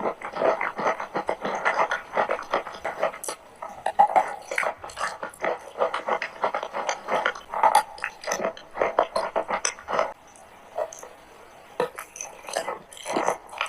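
Chalk with a clay paste filling being chewed: a dense run of crunching and crackling, with a short lull about ten seconds in.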